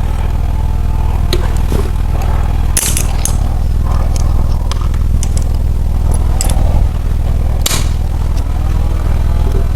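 A few sharp metallic clicks and clanks of tools on a 350 Chevy V8 as its crankshaft is turned a quarter turn by hand, over a steady low rumble.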